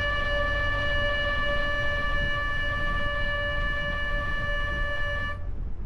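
A horn sounding one long, steady note of unchanging pitch that cuts off abruptly near the end, over the low drone of the boat running.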